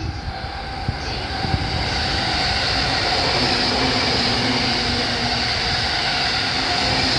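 JR East E531 series electric commuter train running on the Joban Line. A steady rush of wheel and motor noise swells about two seconds in and then holds loud, with a steady hum under it.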